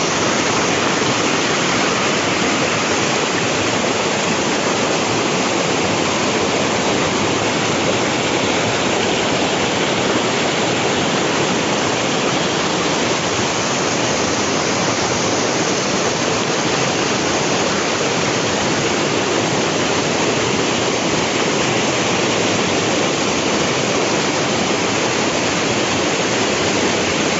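Waterfall and river in spate after heavy rain: a loud, steady rush of floodwater that keeps on evenly without a break.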